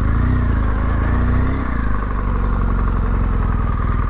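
Adventure motorcycle engine running on the road, its note rising and falling over the first two seconds or so, then holding steady, with a steady rush of air noise.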